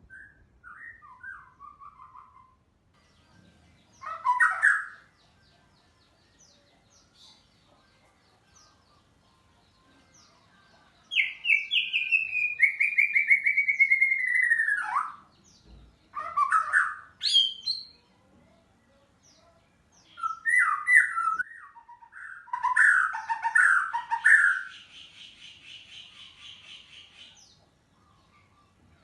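White-rumped shama singing in bursts of varied whistled phrases with pauses between them, including a long falling whistle in the middle and a fainter rapid buzzy trill near the end.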